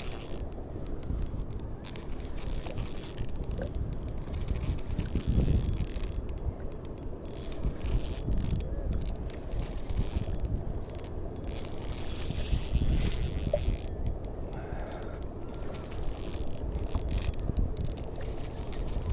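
Fishing reel working under load, a mechanical rattling and ratcheting that comes and goes, as a large hooked fish is fought on a light rod, over low wind and water noise.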